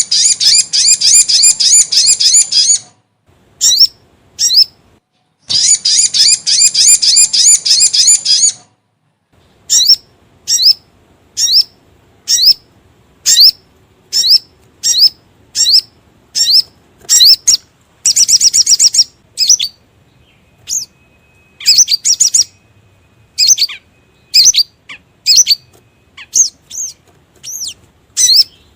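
Sogon (spiderhunter) lure call: two rapid trilled bursts of about three seconds each open the sequence. A long series of single sharp down-slurred chirps follows, roughly one a second, with another short rapid trill near the middle.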